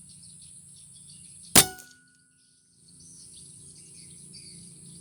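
A single sharp air-rifle shot about a second and a half in, with a short metallic ring after it. Insects chirr steadily in the background.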